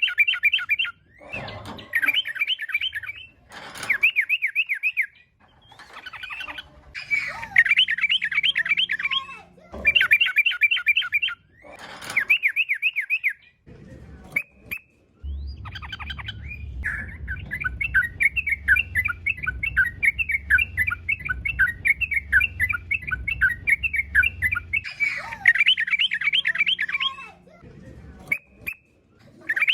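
Yellow-vented bulbul (trucukan) singing in repeated bursts of rapid, bubbling chattering notes with short pauses between them. In the middle comes one longer unbroken run of song over a low rumble.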